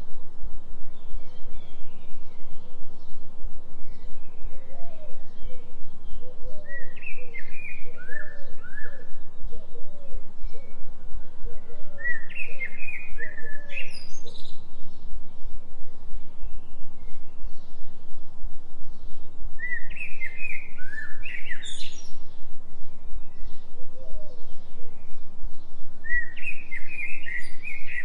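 Birds singing in a forest: a songbird repeats a short phrase of chirps ending in a rising sweep four times, while another bird calls more softly and lower. Beneath them runs a steady low hum that pulses about three times a second, the 3 Hz delta binaural beat.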